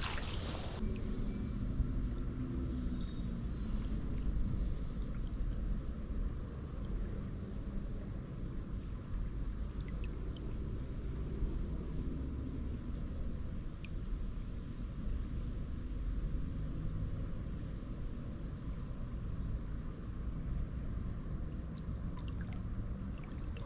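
Steady, unbroken high-pitched insect chorus, like crickets, over a low rumbling noise.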